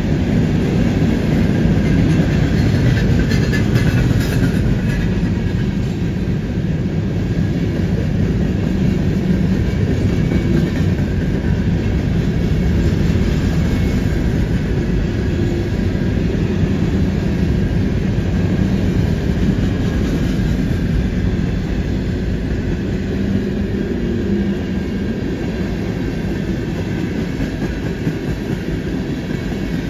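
Freight train cars, covered hoppers and then tank cars, rolling past on a curve: a steady rumble and clatter of steel wheels on rail, easing slightly towards the end. A faint high squeal comes in around four seconds in.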